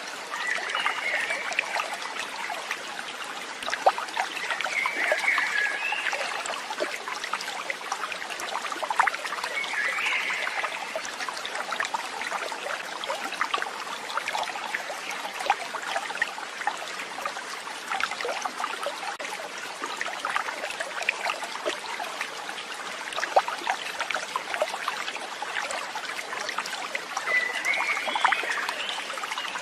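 Water trickling and babbling steadily, like a small stream. Four short chirping calls stand out above it.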